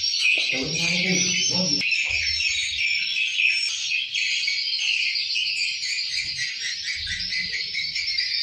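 Swiftlets twittering: a dense, unbroken chorus of rapid high chirps.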